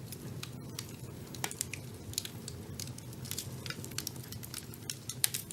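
Wood fire burning in a fireplace: a steady low rumble of flames with many irregular sharp crackles and pops, a few louder pops about a second and a half in and near the end.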